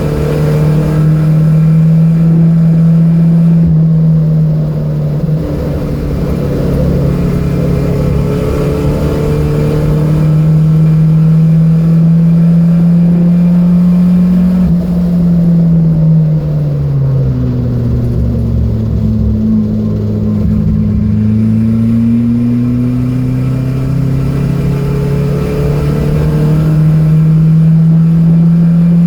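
Datsun B210's engine running hard under load at speed, its pitch climbing slowly. About 15 seconds in the pitch drops and then climbs again, and it falls off suddenly near the end.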